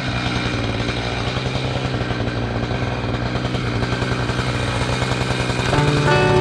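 Two-stroke chainsaw engine running steadily with a fast, even pulse, with music coming in near the end.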